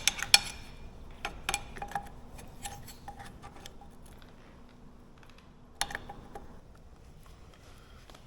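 Light metallic clicks and taps from hand tools and small lever parts being handled while a motorcycle hand lever is fitted. Most come in the first three seconds, with one more near six seconds.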